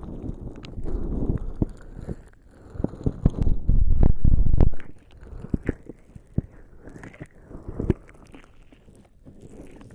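Lubricant-slicked bare skin rubbing and pressing directly on an ASMR microphone: close, wet, squelching rubs with short sticky clicks. There are two heavy low swells of pressure, about a second in and from about three and a half to nearly five seconds in.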